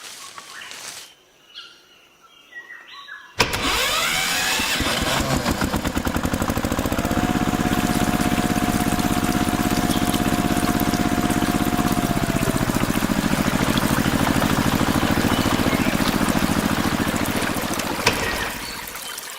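A small engine starts abruptly about three seconds in and runs steadily with a fast, even pulse, then dies away near the end.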